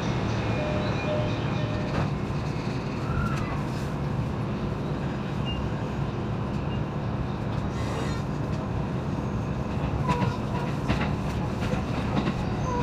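Negishi Line electric train heard from inside a carriage as it pulls out of Ōfuna station, a steady rumble of running noise with a few faint wheel clacks over the rails. It is sped up to double speed.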